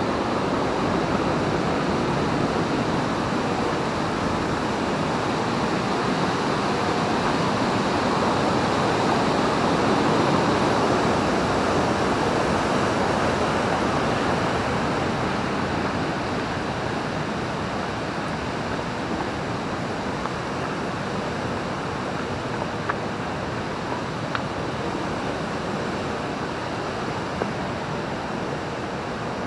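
Steady rush of the Amblève river's water, a little louder about ten seconds in and easing off after, with a few faint clicks near the end.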